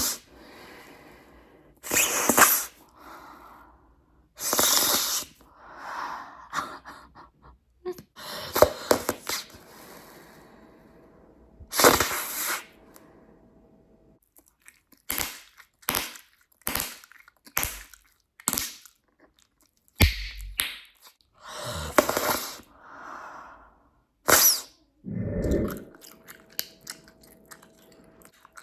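Bubblegum being chewed, blown into bubbles and sucked back in to pop: a string of sharp snaps and pops, with a quick run of them in the middle, and breathy blowing and chewing between.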